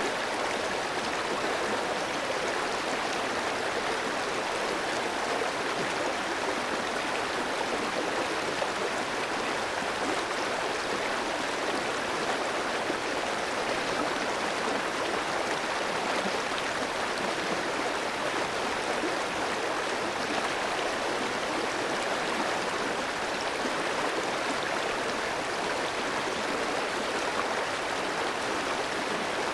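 Clear mountain stream flowing over rocks: a steady, even rush of water.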